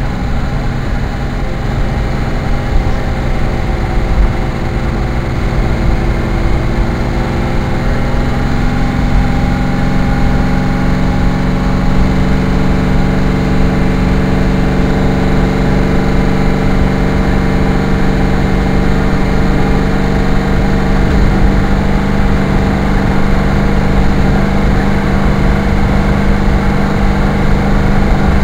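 Car engine running steadily while driving, with road noise underneath. The engine note steps up about nine seconds in and then holds an even pitch.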